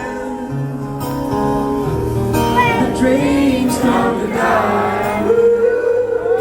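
Live band music with singing; a long steady held note comes in about five seconds in and carries on.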